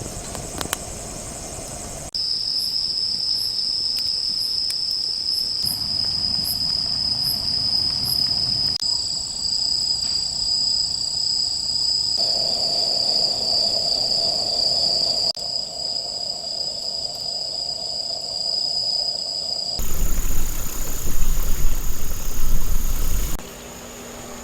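Crickets and other grass insects singing at night: steady high trills, heard as a string of short clips that change every few seconds. Near the end comes a few seconds of louder rushing noise.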